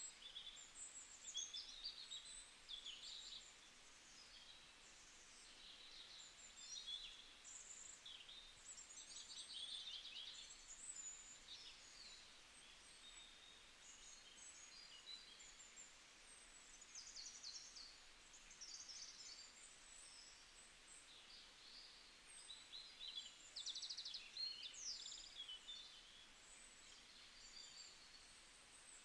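Faint chirping of small birds: many short, high calls, some overlapping, coming and going without a break, over a low hiss.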